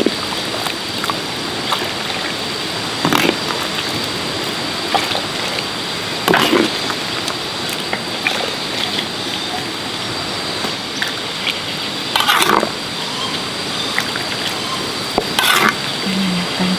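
Steady rushing of water, with a few short knocks scattered through it.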